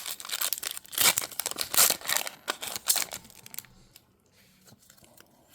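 Foil wrapper of a Pokémon TCG booster pack being torn open and crinkled, in a run of bursts for about three and a half seconds, then only a few faint clicks.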